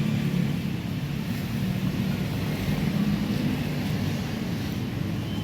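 Steady low rumble of a running engine, with a faint hum in it.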